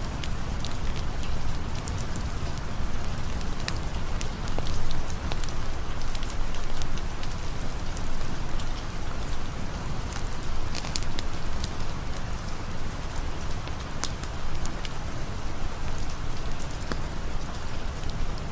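Steady rain falling, with scattered sharp pops and crackles of a campfire over a low rumble.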